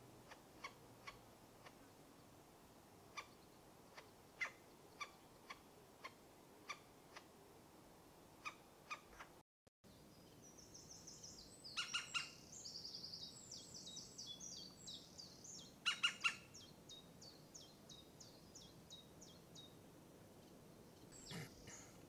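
Wild birds calling in woodland. First come scattered short, sharp call notes. After a brief drop to silence there is a long run of rapid, high-pitched notes, broken by two louder calls about twelve and sixteen seconds in.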